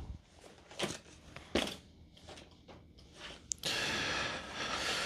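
A man breathing close to the microphone between phrases: a couple of short breaths and small mouth clicks, then one long, steady breath out starting a little past halfway.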